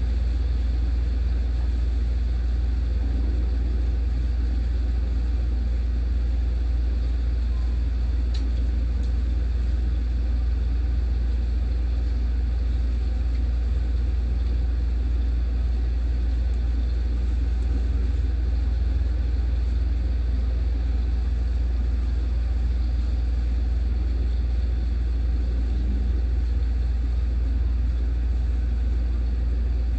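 Steady roar of a heavy thunderstorm downpour, possibly carrying hail, with a strong low rumble underneath and no separate hits standing out.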